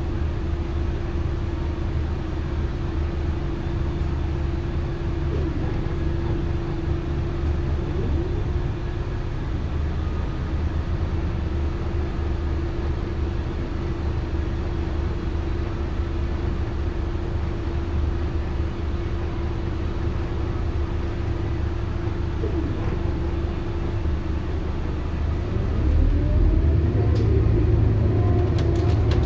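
Scania K280UB bus with a ZF Ecomat automatic gearbox driving: a steady low engine drone with a steady whine over it. Near the end it gets louder and the whine starts rising and falling in pitch.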